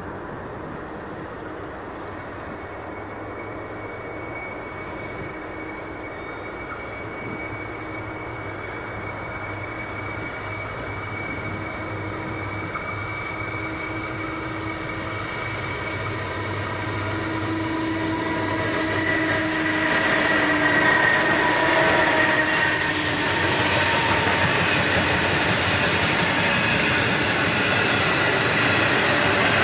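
A loaded grain train hauled by two BL-class diesel-electric locomotives (EMD two-stroke V12s) approaching. Their engine drone and high whining tones grow steadily louder until the locomotives pass about two-thirds of the way through. The hopper wagons then roll by with a broad rushing wheel-on-rail noise.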